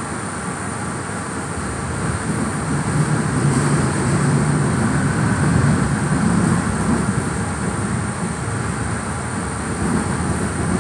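Cabin noise of a PATCO rapid-transit car under way: steady wheel-on-rail rolling noise with a low rumble that grows louder for a few seconds in the middle, and a faint steady high whine running throughout.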